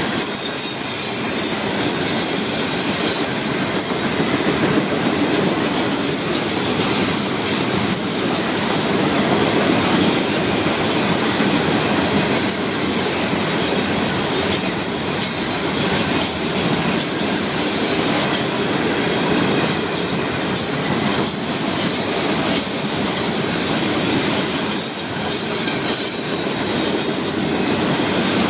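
Florida East Coast Railway freight cars rolling past: a steady rumble and clatter of steel wheels on the rails, with high-pitched wheel squeal now and then.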